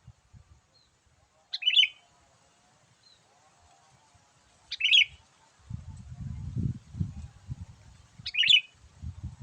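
Sooty-headed bulbul calling: three short, loud calls a few seconds apart. A low rumble runs underneath from about halfway through.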